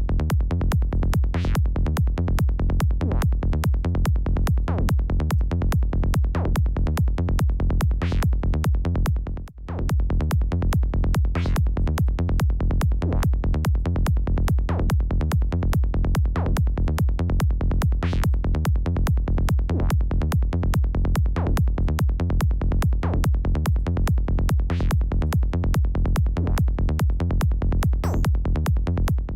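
Psytrance loop from a Serum synthesizer patch: a fast, even pulsing bassline over a drum-machine beat. It cuts out briefly about nine and a half seconds in.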